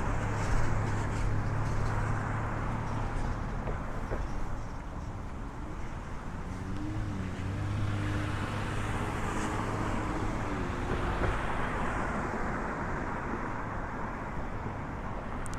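Road traffic on a busy city street: a continuous rush of passing cars that swells and fades, over a steady low engine hum, with one vehicle's engine tone wavering in pitch around the middle.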